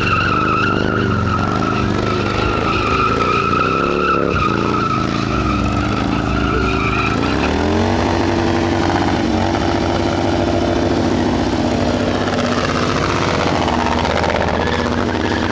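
A motorcycle burnout: a high, steady tyre squeal over a revving engine for the first seven seconds or so. The engine's pitch then climbs and holds high while the squeal fades.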